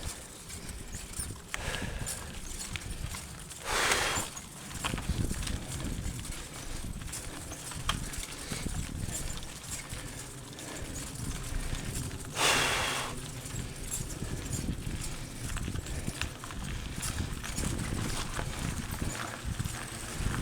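Mountain bike rolling over a rough dirt and rock trail: irregular knocking and rattling of the bike over bumps, with tyre and ground rumble. Two short hissing rushes come about four seconds in and again near the middle.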